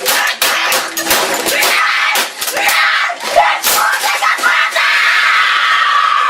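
A boy screaming in a loud, chaotic din over a rapid run of hard banging and slapping hits. The hits thin out about four or five seconds in, leaving a sustained shrill scream.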